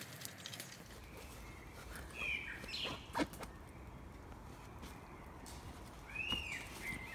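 Two short bird calls, one a little over two seconds in and one about six seconds in. Under them are scattered small clicks of footsteps and twigs on the woodland floor, and a sharp snap about three seconds in.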